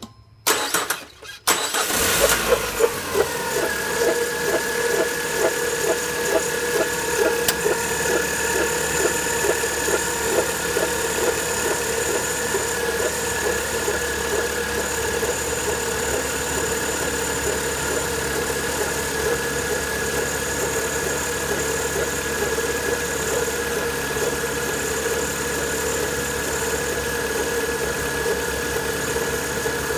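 Car engine cranked by its starter and catching about two seconds in, then idling steadily. A high whine runs above the idle, dropping slightly in pitch as the engine settles.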